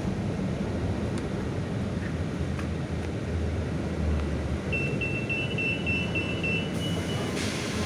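Scania K320 city bus in motion heard from inside the cabin: steady low engine and road rumble. About five seconds in, a quick string of about eight short high beeps at one pitch runs into a brief held tone.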